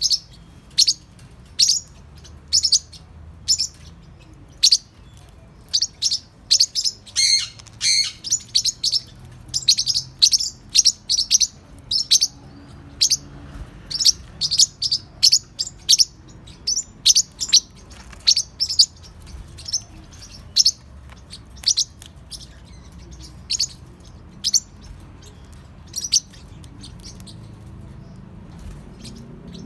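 Young Forpus parrotlets chirping: many short, sharp, high-pitched chirps, sometimes in quick runs, with gaps between them. They thin out and stop a few seconds before the end.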